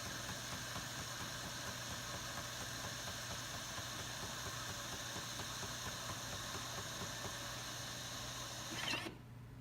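Jura Impressa XJ9 super-automatic espresso machine running as it makes a latte: a steady whirring hiss that swells briefly and then cuts off abruptly about nine seconds in.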